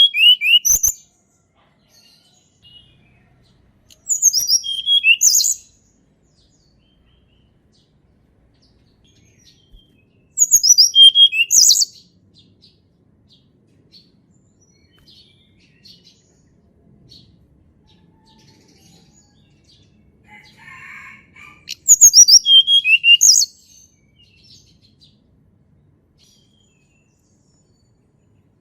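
Tledekan gunung (Sunda blue robin) singing: four short phrases of high, quick whistled notes sweeping downward, near the start, around four seconds in, around ten seconds in and again after twenty seconds, with silent pauses between.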